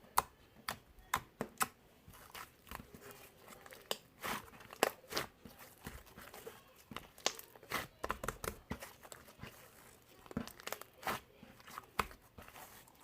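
Irregular crinkling and crackling, with many sharp clicks at uneven intervals.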